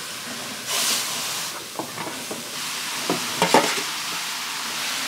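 Diced taro tipped into a hot pot of sautéed onion and seasoning on a gas stove, sizzling and being stirred. The sizzle swells about a second in, and a few clinks of metal on the pot come near the middle.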